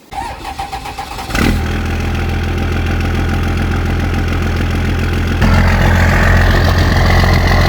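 Diesel truck engine cranked over by the starter for about a second and a half, then firing and running steadily. About five and a half seconds in it gets louder as it is run up to blow the water pooled in the exhaust out of the tailpipe.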